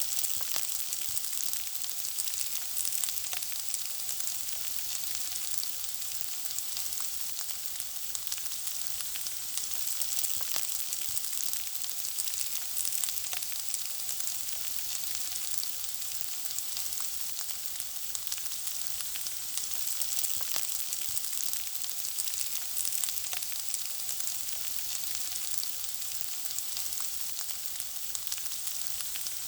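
Food frying in hot oil: a steady high sizzle with many small crackling pops.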